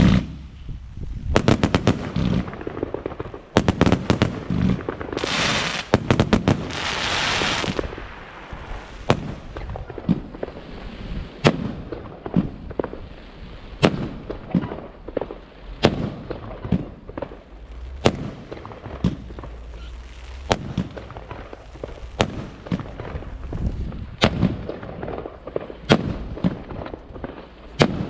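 Consumer firework battery (cake) firing. A dense volley of shots comes first, with a hissing stretch of a couple of seconds in the middle of it. About eight seconds in, it settles into single shots roughly one a second.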